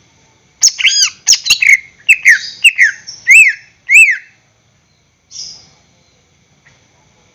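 A cucak ijo (leafbird) singing a fast, loud run of whistled notes and sharp clicks for about four seconds, many of them arching or sweeping down in pitch, then one short note a second later.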